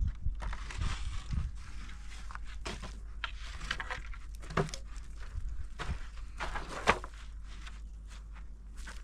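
Irregular light knocks and rustling, with a steady low rumble underneath.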